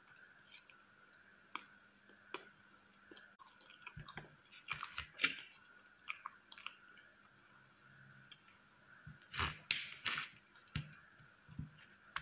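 Close-miked chewing of soft whipped-cream cake: wet mouth clicks and lip smacks in scattered clusters, loudest a few seconds in and again around ten seconds in.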